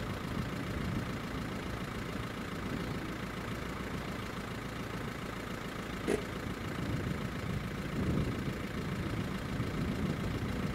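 Steady car engine and road noise, with a single sharp click about six seconds in.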